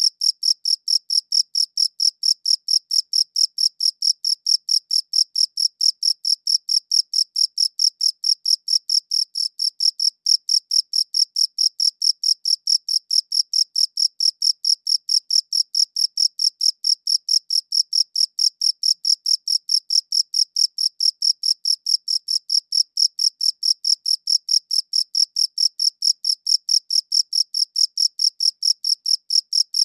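Cricket chirping in a steady, even rhythm of about four high-pitched chirps a second.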